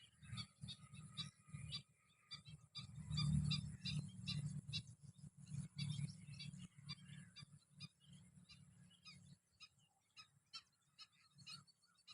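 A large flock of small birds chirping, many short calls overlapping continuously, over a low rumble that is loudest about three seconds in and dies away after about nine seconds.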